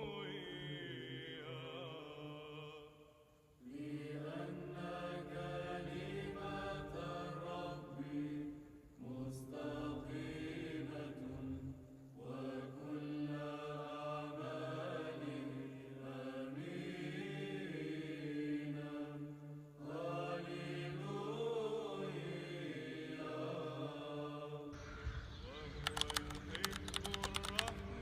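Background music of chant: voices singing a slow melody over a steady low held drone note. Near the end the drone drops out and a quick run of clicks is heard.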